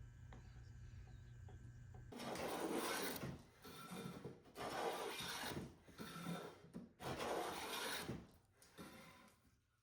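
Restored Union Plane Co. hand plane taking shavings off a board, in about six strokes of roughly a second each that start about two seconds in, after a low steady hum.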